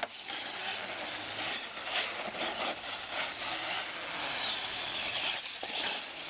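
Radio-control truck driving on the dirt course: a gritty, rasping scrape of tyres and drivetrain with many short crackles.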